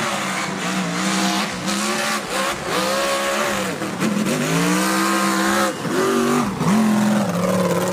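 Car engine revving, its pitch sagging and climbing again about five times, over a steady hiss like tyre noise.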